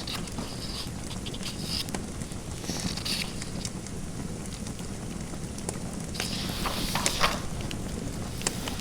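Fireplace fire crackling with scattered sharp pops over a steady low rush, while a pen or pencil scratches on paper in short bursts of writing strokes, the longest about six to seven seconds in.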